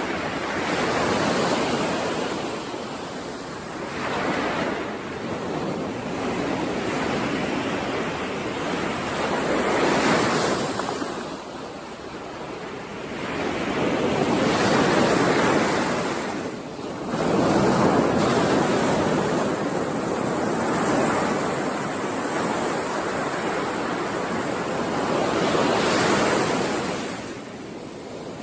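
Ocean waves breaking and washing on a shore, the surf swelling and falling away every few seconds.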